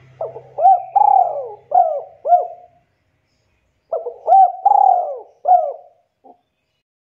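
Spotted dove (tekukur) cooing: two phrases of several swooping coos each, the second starting about a second after the first ends.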